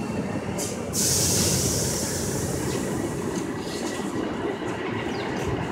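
New York City Subway 7 train running at the platform with a steady rumble. A sudden hiss of air comes about a second in and fades over the next couple of seconds.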